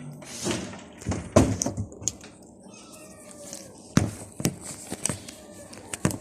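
Hungry stray cats meowing, with several sharp knocks or clatters among the calls.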